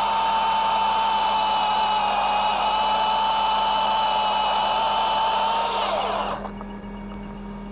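Milwaukee battery-powered top-handle chainsaw running at full speed through a bottom cut, a steady high whine that winds down and stops about six seconds in.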